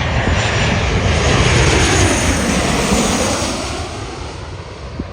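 Jet airliner passing low overhead on its way in to land. The engine noise builds to a peak about two seconds in, then fades with a falling pitch as the plane moves away.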